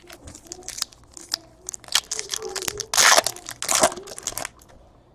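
Trading-card pack wrapper being torn open and crinkled: a run of sharp crackles, densest and loudest about three seconds in.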